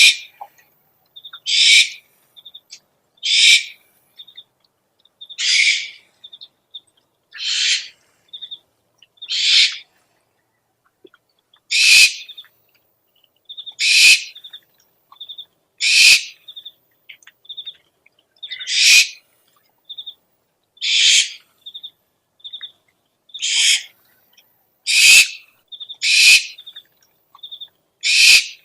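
Owl calling over and over: harsh, hissing screeches about half a second long, one every one and a half to two seconds, with short high pips between them.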